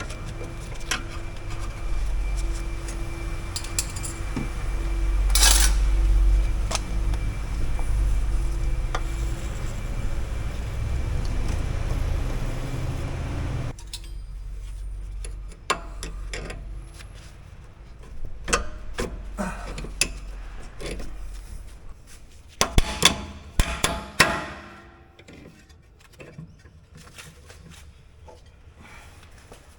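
Steel tools clinking and tapping on the rear brake pad guide pins as they are knocked and pried out with a breaker bar and pliers, with a cluster of sharp metal strikes about three-quarters of the way in. Through the first half a steady low rumble runs underneath and cuts off abruptly.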